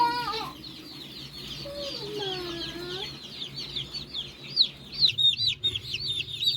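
A crowd of day-old chicks peeping continuously: many overlapping high chirps, each falling in pitch, getting busier and louder near the end.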